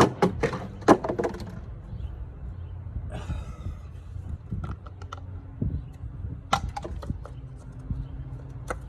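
A string of light clicks and knocks, several close together in the first second and a few scattered ones later, over a steady low hum.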